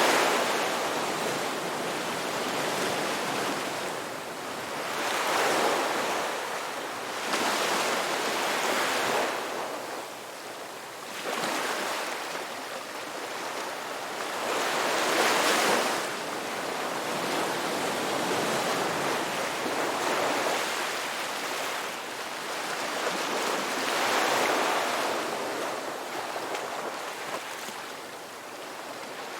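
Ocean surf: waves breaking and washing in, the rush swelling and fading every few seconds, with the strongest swell about halfway through.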